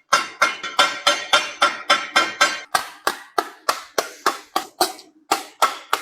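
Hand hammer striking sheet brass in quick, even blows, about four a second, each with a short metallic ring. The blows space out near the end.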